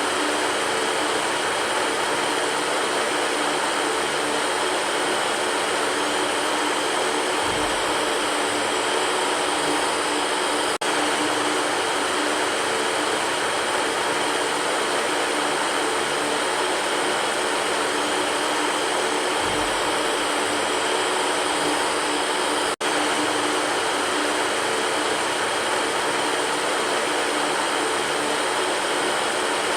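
Electric fan running steadily: a constant rush of air with a low motor hum under it. The sound cuts out for an instant twice, about 11 and 23 seconds in.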